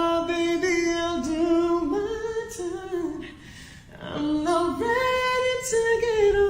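A solo singer's voice with little or no accompaniment, holding long notes in two phrases with a short break about three seconds in.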